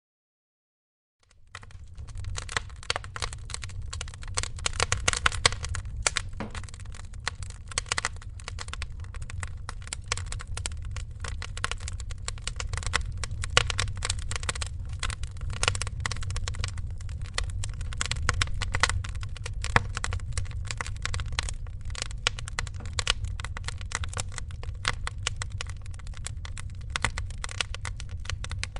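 Wood fire crackling and popping in a fireplace, irregular sharp snaps over a low steady rumble of the burning. The sound drops out to silence for about the first second, then fades back in.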